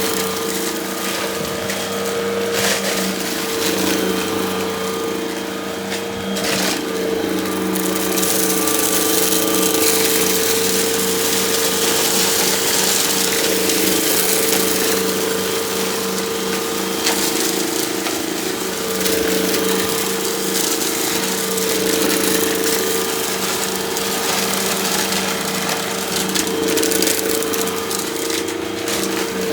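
Hoover vacuum cleaner running steadily, its motor hum under a loud rush of air, with a few brief crackles of debris being sucked up.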